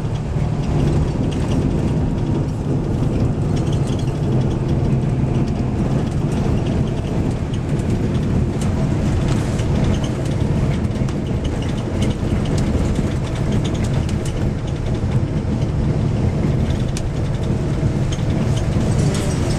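Steady low engine and road rumble heard from inside a moving vehicle, a continuous drone without let-up.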